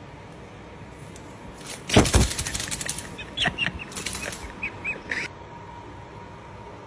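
A bird's wings flapping rapidly in a short burst about two seconds in, followed by a few short, high calls.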